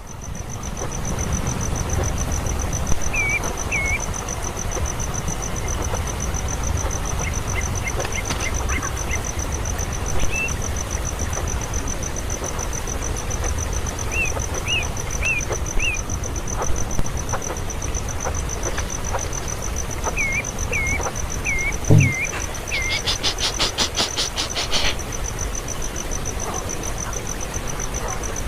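A steady high-pitched insect trill, with short upward-hooked bird chirps coming in runs of two to five. Near the end a rapid buzzing rattle lasts about two seconds, all over a low rumbling noise.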